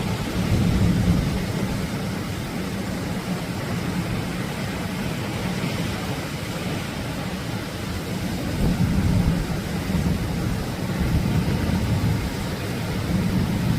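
Atlantic ocean waves breaking on the shore: a steady wash of surf that swells louder about nine seconds in and again near the end.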